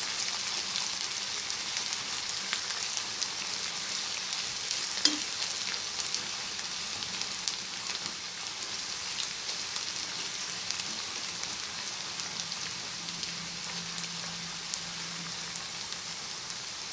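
Sliced onions with crushed garlic and ginger sizzling in hot mustard oil in a kadhai while a spatula stirs them. It is a steady frying hiss dotted with small pops and ticks, with one sharper click about five seconds in.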